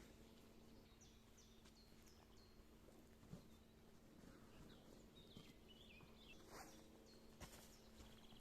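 Faint songbird calls: a run of short, high, falling chirps, then a brief warbling phrase, with a few soft clicks and a steady low hum underneath.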